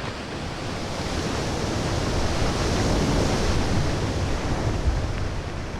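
A rushing, surf-like water noise that swells to its loudest midway and then fades, with one low thump near the end.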